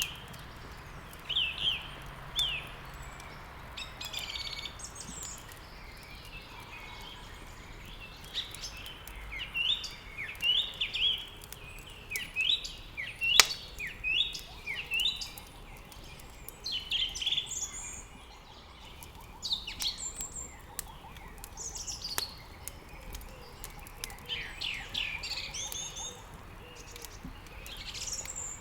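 Several songbirds chirping and singing, many short falling chirps overlapping. Wood crackling in a fireplace gives scattered sharp clicks, one loud pop about 13 seconds in.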